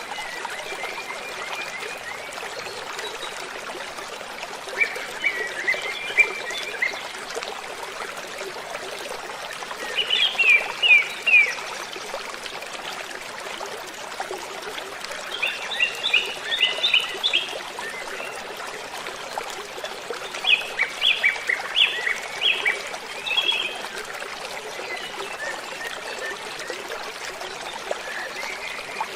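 Steady rush of falling water from a waterfall, with a songbird singing short phrases of quick, downslurred notes about every five seconds.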